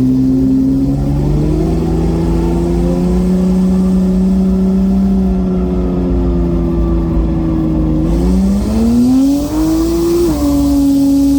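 BMW N54 engine with a single Precision 6466 turbo, running on 17 psi boost and pulling hard under load. Its pitch climbs, holds nearly level for several seconds, climbs again, then falls abruptly about ten seconds in and settles to a steady note.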